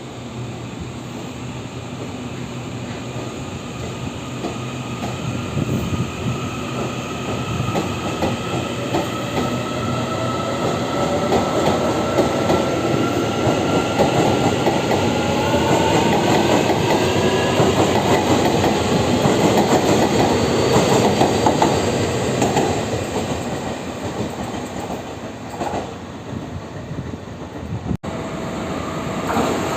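Electric multiple-unit commuter train pulling out and accelerating, its traction motors giving a rising whine over the clatter of wheels on the rail joints. It grows louder as the train passes close, then eases off as it moves away.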